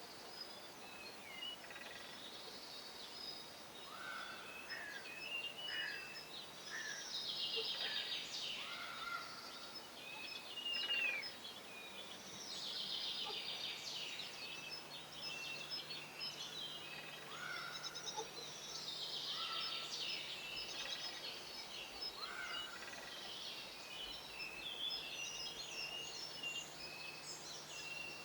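Several small garden songbirds chirping and twittering, a busy stream of short call notes that sweep up and down in pitch, thickening into dense twittering several times.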